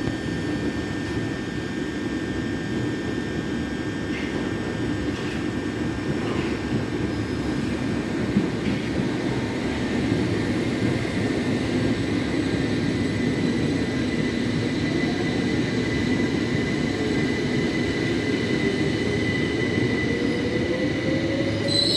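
Electric train running at the station, a steady low rumble with a thin high whine; from about 15 seconds in a motor whine rises steadily in pitch.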